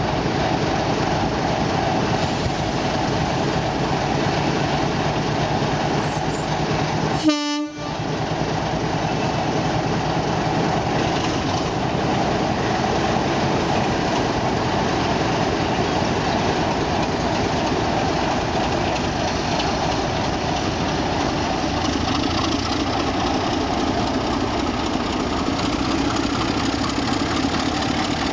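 Heritage diesel locomotive running with its train, a steady, loud engine sound, broken by a short gap about seven seconds in.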